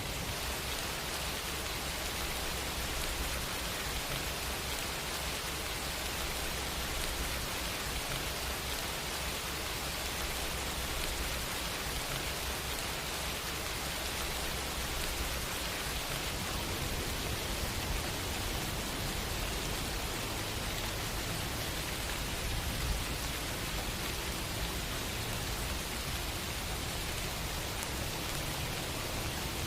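Steady rain falling, an even hiss of drops on a surface with no change in intensity.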